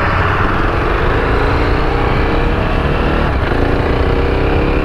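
KTM 690 Duke's single-cylinder engine pulling under acceleration, its pitch rising steadily, dropping about three seconds in at an upshift, then rising again. Steady wind rush runs underneath.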